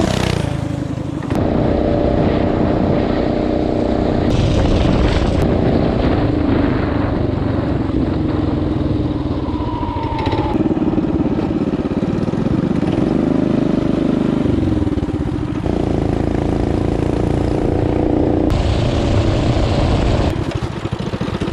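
Coleman CT200U mini bike's small single-cylinder engine running under way, its pitch rising and falling with the throttle. The sound changes abruptly a few times.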